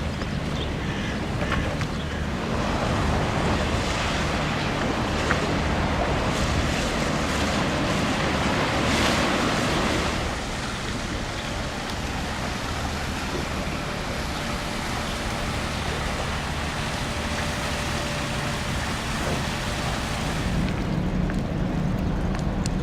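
Wind on the microphone over a low steady hum, a rushing noise that swells for several seconds in the first half.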